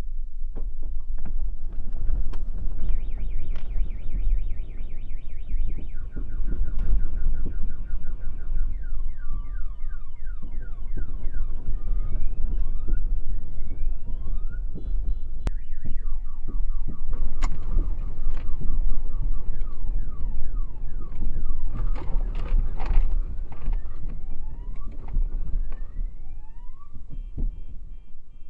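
Car alarms going off, cycling through rapid beeping and repeated rising whoops, over a loud deep rumble and constant rattling and clattering of earthquake shaking.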